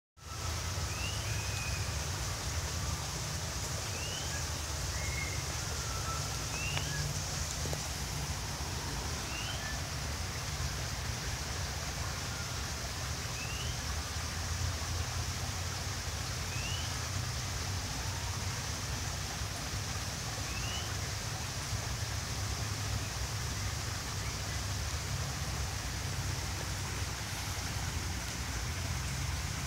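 Steady outdoor background of hiss and low rumble, with a bird repeating a short rising call note every few seconds that stops about two-thirds of the way through.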